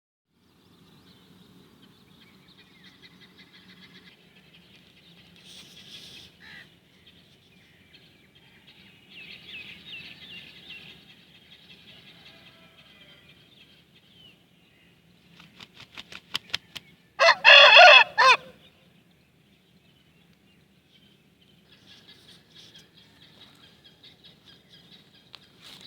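An Aseel rooster flaps its wings in a quick run of beats, then crows once, loudly, about seventeen seconds in. Faint high chirping goes on in the background.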